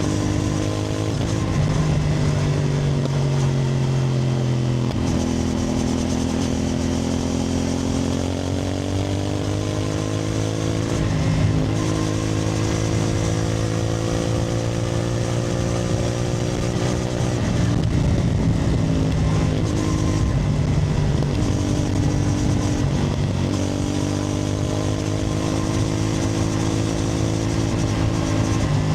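CFMoto 450NK's parallel-twin engine running under way. Its pitch climbs and eases with the throttle, with a few sudden steps in pitch at gear changes.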